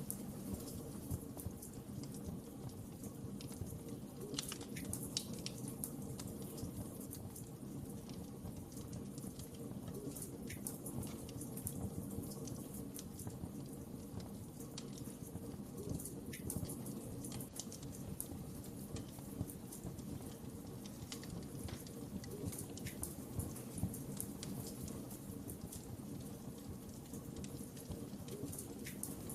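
Wood fire burning with a steady low rumble, crackling and popping at irregular intervals.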